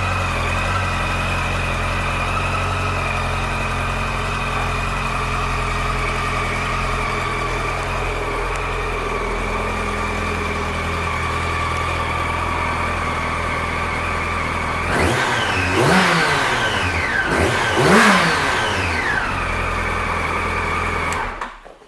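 2007 Yamaha FZ1's inline-four engine idling steadily, then blipped up and back down three times, and switched off near the end.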